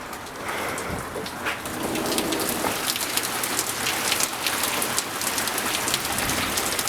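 Torrential rain pouring down, growing louder about half a second in and again around two seconds, with many close drop splashes.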